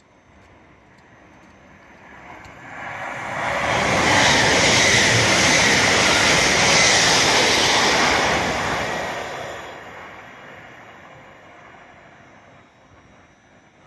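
Hull Trains Class 802 passenger train passing at speed: a rushing roar of wheels on rail and air that builds over about two seconds, holds for about four, then fades away.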